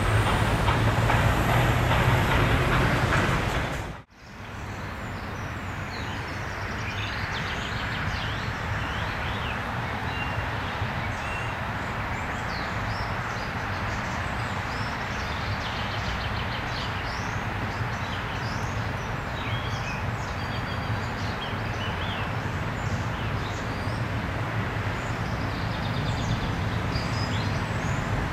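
A steam train running past, loud, cut off abruptly about four seconds in. Then birds chirping over a steady outdoor background noise.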